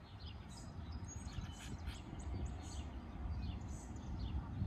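Birds chirping with many short, high calls over a steady low rumble of background noise.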